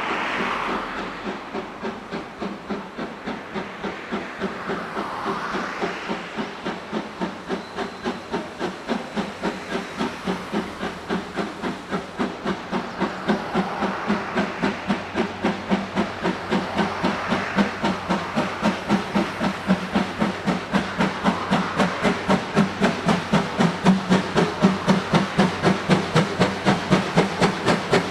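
Steam exhaust of the C11 325, a two-cylinder steam tank locomotive, chuffing as it works a train, the beat quickening from about two and a half to about four chuffs a second and growing louder, over a steady steam hiss.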